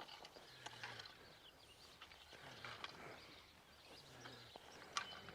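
Near silence: faint outdoor ambience with a few faint clicks, one sharper click near the end.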